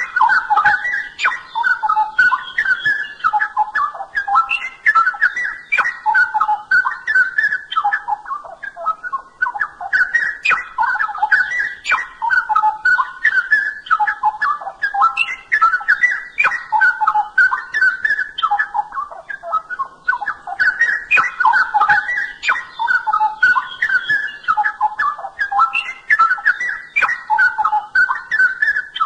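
Straw-headed bulbul (cucak rowo) singing a loud, bubbling, warbled song of rapid low-pitched whistled notes, the same long phrase coming round about every ten seconds, with sharper high notes scattered through it.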